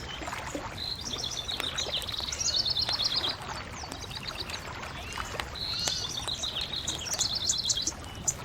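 A songbird singing two rapid trilled phrases, one about a second in and another past the middle, over a steady low background hiss, with a wood fire giving a few sharp crackling pops now and then.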